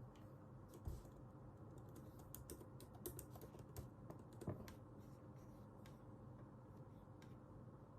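Faint typing on a computer keyboard: a run of quick key clicks, densest in the first half, thinning to occasional single taps.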